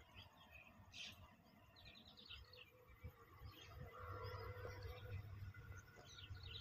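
Faint bird chirps in short trilled runs, about two seconds in and again near the end, over a low rumble that grows louder about halfway through.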